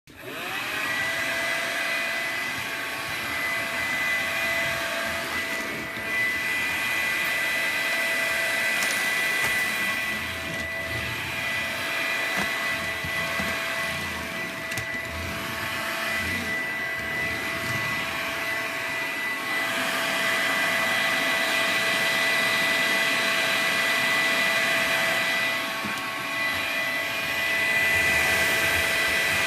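Makita vacuum cleaner switched on, its motor spinning up within the first second, then running steadily with a high whine, its loudness rising and falling as it is moved about.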